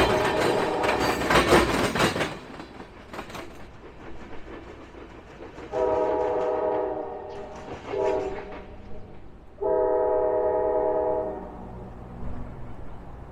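Locomotive horn blowing as a train goes through, loud at first over the rumble and rattle of the train. It then sounds a long, a short and a long blast, the close of the long-long-short-long grade-crossing signal.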